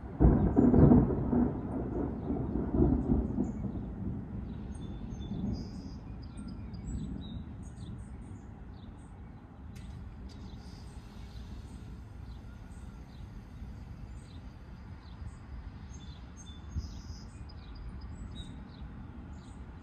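Thunder from a close lightning strike: a sudden crack just after the start, then rumbling that rolls on with a second swell about three seconds in and fades over several seconds. Birds chirp throughout.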